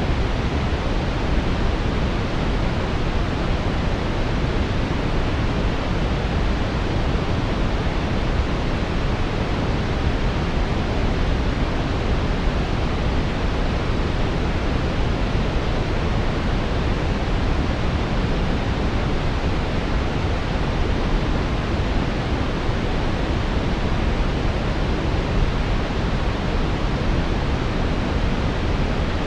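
Steady brown noise: a deep, even rushing hiss, strongest in the low end and fading toward the highs, with no changes or events.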